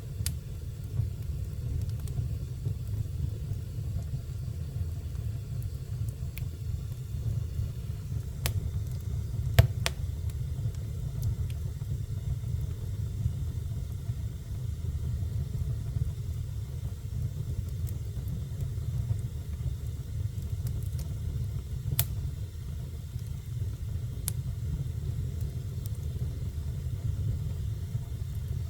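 Fire burning in a fireplace: a steady low rumble of flames with a few sharp crackles and pops, the loudest about ten seconds in.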